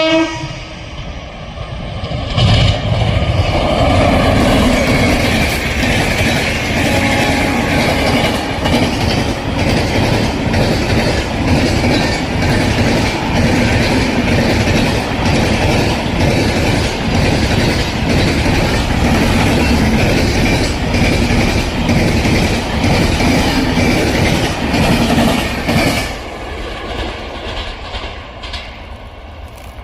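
Passenger express train passing close by. A heavy continuous rumble with a regular clickety-clack of wheels over rail joints builds up about two seconds in, holds steady, and falls away near the end.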